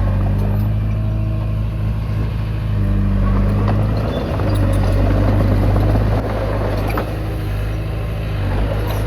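Komatsu D20P bulldozer's diesel engine running steadily as it works. Its note swells louder about halfway through and drops back about two-thirds in, with a few faint sharp clanks.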